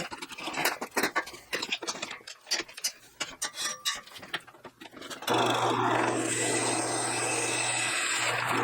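Tools and parts clicking and scraping with irregular knocks. Then, about five seconds in, a power tool starts suddenly and runs steadily with a constant low hum, dipping briefly near the end.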